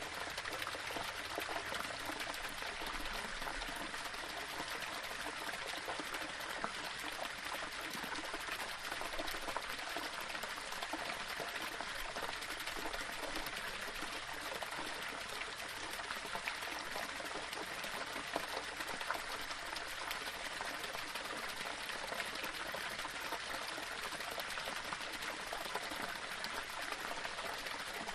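Small waterfall splashing and trickling over rocks: a steady, even rush of running water.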